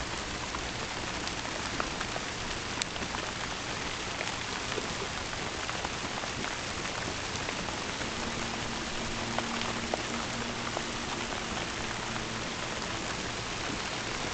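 Steady rain falling during a thunderstorm, with scattered drops ticking sharply on nearby surfaces. A faint low steady tone comes in just past the middle and fades before the end.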